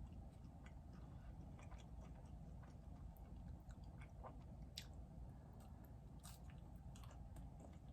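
Faint close-up chewing of food, with scattered small mouth clicks.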